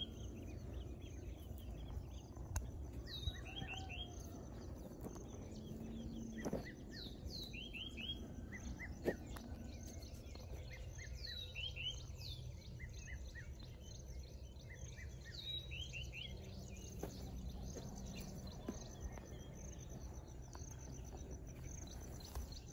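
Farm ambience: a bird repeats a short phrase of quick downward-sliding high notes about every four seconds, over a steady thin high insect tone and a low wind-like rumble, with a few faint knocks.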